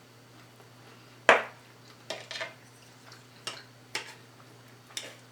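Utensils clinking and scraping against plates and food containers in a handful of short sharp clicks, the loudest about a second in, over a faint steady hum.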